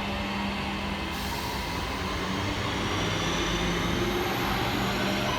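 A Class 323 electric multiple unit pulling away, its traction motors humming with steady low tones and a faint rising whine over a continuous rumble of wheels on rail as it gathers speed.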